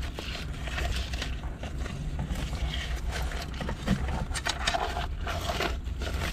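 Scraping and small clicking knocks among rocks as a crab is being pulled out of its hiding hole, over a low steady rumble.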